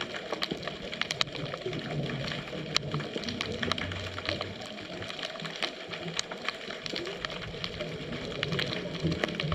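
Underwater ambience heard through a camera on a scuba dive: dense, irregular clicking and crackling, with uneven low rumbling surges now and then.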